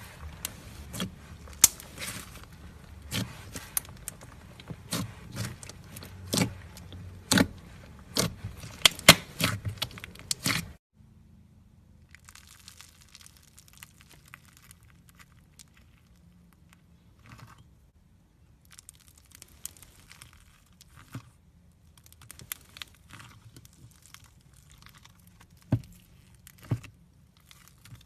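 Styrofoam-bead slime being squeezed and worked by hand, giving quick sharp crackles and pops. About eleven seconds in, it drops suddenly to a much quieter stretch with only sparse, soft crackles.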